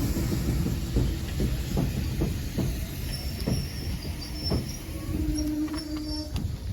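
Double-headed steam train running in at low speed: a steady low rumble of locomotives and coaches with scattered clicks from the wheels on the track, and a brief steady squeal about five seconds in.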